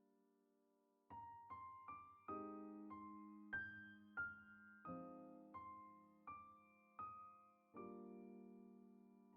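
Soft background piano music: a short melody of single struck notes over chords, ending on a held, fading chord.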